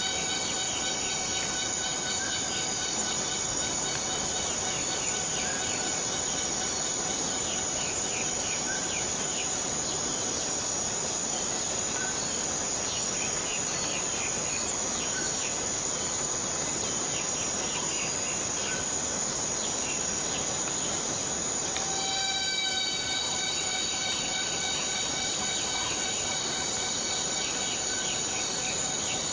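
Steady rainforest rain with a continuous, high, whining insect drone laid over it, plus scattered short insect chirps. About 22 seconds in, the drone changes to a new set of pitches.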